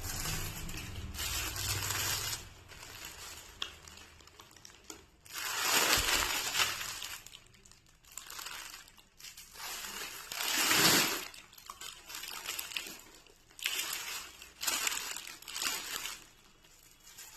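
Rustling and crinkling in irregular bursts as a scarf is handled and unfolded to show its checked print.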